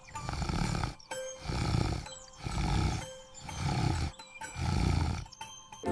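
Cartoon animal snoring: five rhythmic, rough swells, about one a second, each rising and falling.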